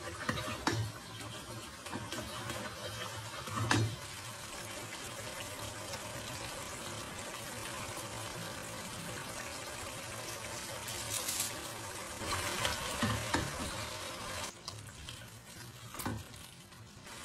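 Chicken pieces sizzling in spiced gravy in a stainless-steel pot, with a spatula stirring and now and then knocking or scraping against the pot.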